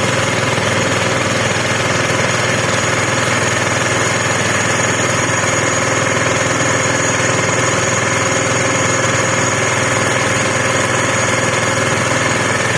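A small engine running steadily at one constant speed, with no change in pitch or level.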